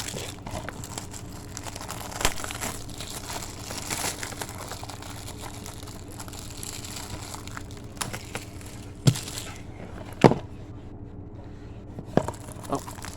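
Plastic wrapping on a DVD case crinkling and tearing as it is pulled off, with a few sharp clicks, the loudest two about nine and ten seconds in.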